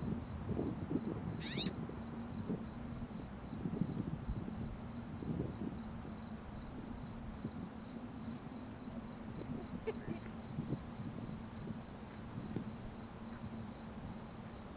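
An insect, cricket-like, chirps in a steady high pulsed trill of about three pulses a second over low rustling background noise. A short high chirp cuts in about a second and a half in.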